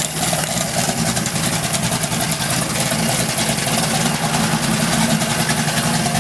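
Oldsmobile 350 V8 engine idling steadily with an even exhaust pulse, running after being freshly installed.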